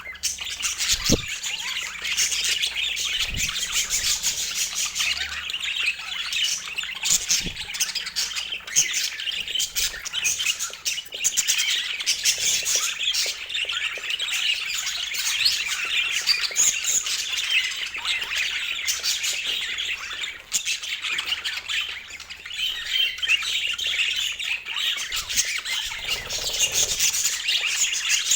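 Budgerigars chattering: a steady, dense stream of warbles, chirps and squawks.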